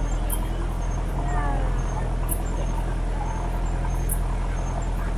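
Boat engine running with a steady low hum. Insects chirp in short, high-pitched pulses that repeat every second or two, and faint voices come in briefly.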